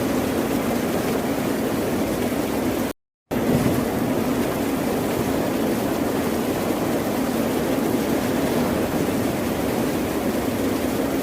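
Ocean surf: a continuous low rush of wave noise with no separate wave breaks standing out. About three seconds in, the sound cuts out to silence for about a third of a second, then resumes.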